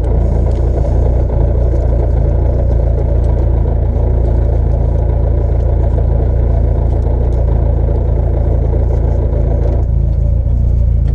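Mercedes-Benz 190E 2.3-16's four-cylinder engine idling steadily, heard from inside the cabin of the stationary rally car.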